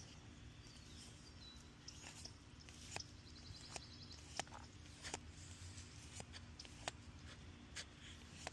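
Faint, scattered sharp clicks and light taps, about ten of them, over a low steady hum, with a brief high chirp about three and a half seconds in.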